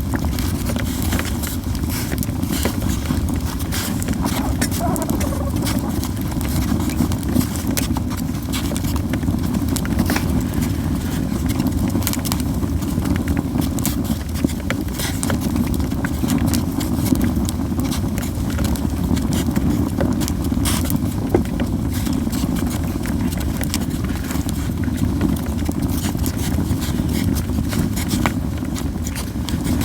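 Japanese yew firewood burning, crackling and popping with frequent sharp snaps, irregularly spaced, over a steady low rumble.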